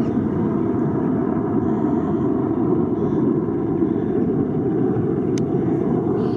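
Military aircraft engine noise, loud and steady, cutting off abruptly near the end.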